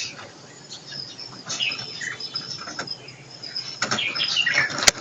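Small birds chirping and calling in short, scattered notes, with scratchy rustling, and a single sharp click near the end.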